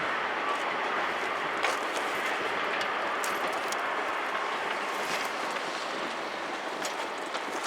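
Express passenger train running past on the rails, a steady rushing rumble of its cars with a few faint clicks, slowly fading as it draws away.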